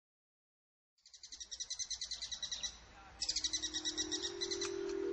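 Silence for about a second, then a bird's rapid trilling chirps in two runs, the opening of an ambient music track; steady held musical notes come in underneath in the second half.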